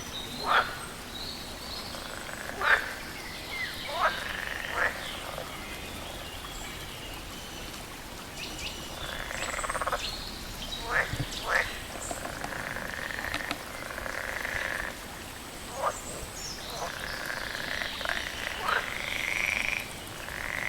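Frogs croaking: about a dozen short, sharp calls that drop in pitch, coming at irregular intervals over a steady background chorus.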